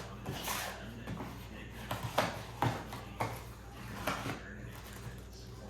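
Packaging and small plastic headset parts being handled during unboxing: rustling with several sharp clicks and knocks.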